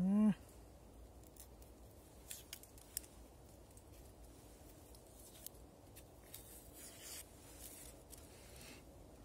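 A brief vocal sound from the man at the very start, then faint, scattered crackling and scraping as dry onion skin is peeled and torn off.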